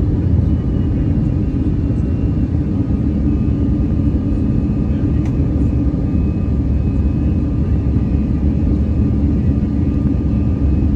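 Airbus A319 cabin noise: a steady low rumble of the engines and airflow, with a faint thin whine above it and no change in pitch or level.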